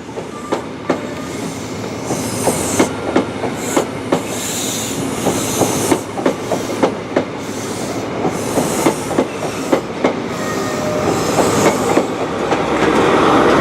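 High Speed Train (InterCity 125) rolling slowly out of the station, its coach wheels clicking over rail joints and pointwork in a long irregular run of clicks, with some wheel squeal. The noise grows louder toward the end.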